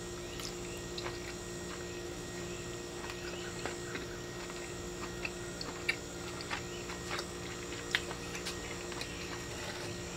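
A person chewing a bite of steak, with faint scattered mouth clicks and smacks, over a steady low hum.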